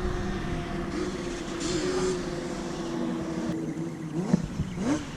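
Electric motor of a toy-grade 1/18 scale RC truck whining steadily as it drives, then revving up and down several times in quick sweeps near the end.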